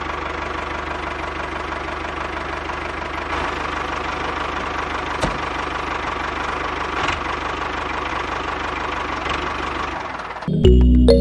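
Small diesel engine running steadily with a rapid, even knocking chug. Music comes in suddenly near the end.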